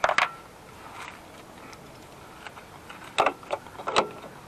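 A few short metallic clicks and knocks as a rope and its hook are handled and hooked on, a cluster just after the start and another about three to four seconds in.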